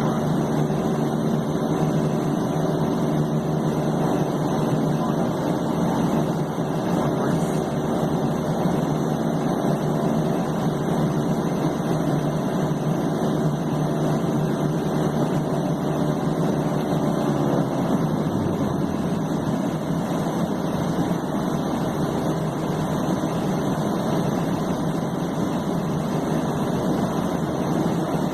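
King Air B200's Pratt & Whitney PT6A turboprop engine idling with a steady turbine whine and propeller drone. About two-thirds of the way through, its pitch drops slightly.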